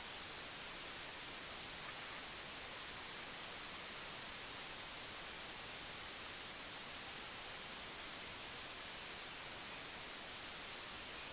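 Steady hiss of static-like noise with no distinct events, typical of a noisy camera microphone or an added noise track.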